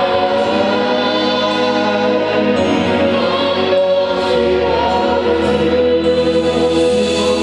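Gospel worship music: a group of singers holding long notes in a slow song, over sustained accompaniment whose bass changes about two and a half seconds in and again about four seconds in.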